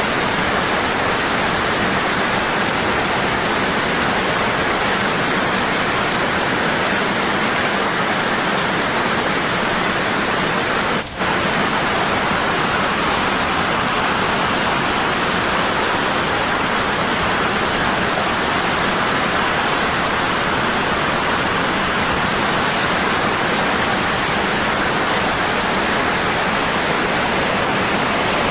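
Waterfall falling strong and constant, a steady heavy rush of water with a momentary dip in level about eleven seconds in.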